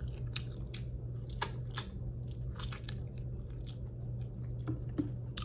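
A person chewing food close to the microphone, with irregular wet clicks and smacks from the mouth.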